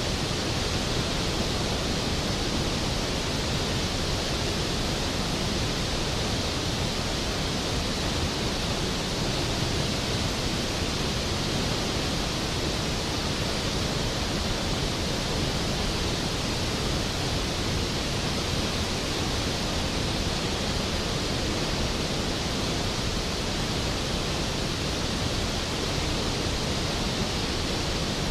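Skógafoss waterfall: a large volume of water falling and crashing into its plunge pool, a steady, unbroken rushing roar.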